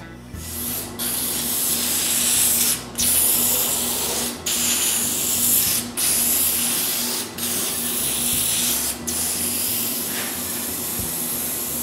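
Aerosol can of metal preservative spraying onto bare table saw metal: a run of long hisses, about seven, each broken by a brief pause, the last one the longest.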